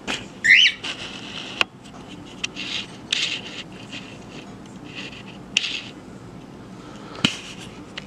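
A pet bird gives a short rising chirp about half a second in, among scraping and rustling noises and a few sharp clicks.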